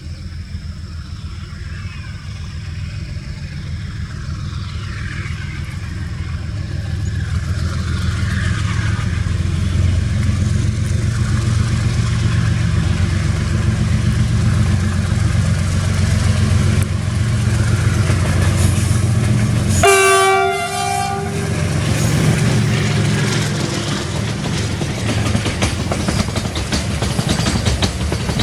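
WDG4G diesel-electric locomotive's engine rumbling, growing louder over the first ten seconds as the train comes near. About two-thirds of the way through, one horn blast of about a second and a half. Afterwards the wagons rattle past with a clickety-clack of wheels on rail joints.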